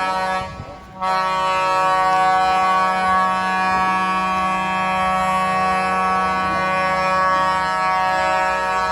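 Truck air horn held for a long, steady blast. It breaks off briefly about half a second in, then sounds again and holds.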